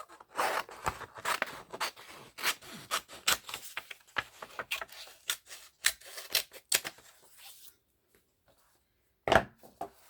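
Scissors cutting paper: a run of short, irregular snips and rustles for about eight seconds, then one sharp knock near the end.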